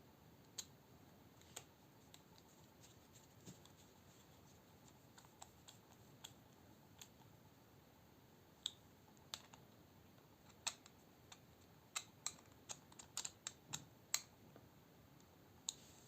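Sparse sharp clicks and taps of small metal knife parts and a bit driver being handled, coming thicker and louder in the second half, with a rapid run of clicks shortly before the end.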